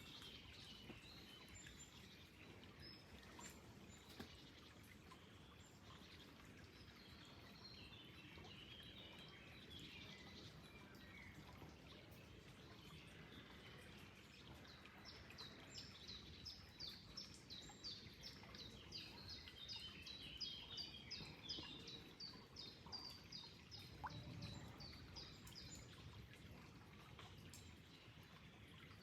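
Faint birdsong over a steady wash of flowing water. About halfway through, one bird sings a fast run of short, high repeated notes, about three a second, for some ten seconds.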